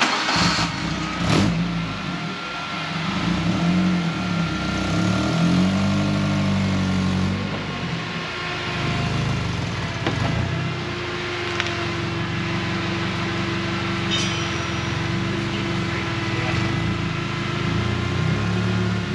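Suzuki Samurai engine running under way, revving up and down. There are a few knocks in the first second and a half and another about two-thirds of the way through.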